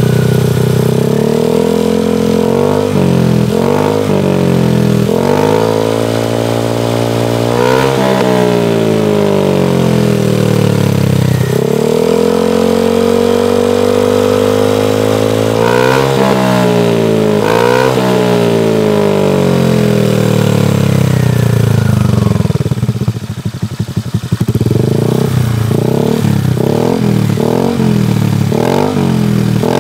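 Honda Vario 125 scooter's single-cylinder engine revving through a CLD C3 oval aftermarket racing exhaust with the dB killer removed. It is revved up and let fall again and again, with a few longer held revs; about three-quarters of the way through it drops to a stuttering idle, then is blipped quickly several times.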